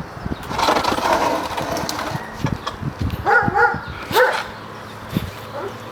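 A dog giving a few short, pitched whining yelps about three to four seconds in.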